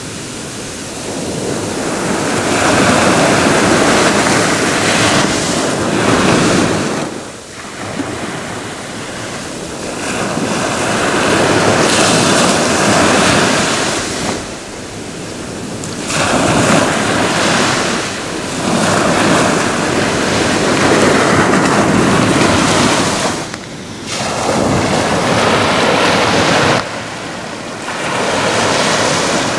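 Ocean waves breaking and washing up the shore, the surf swelling and fading in about five surges a few seconds apart.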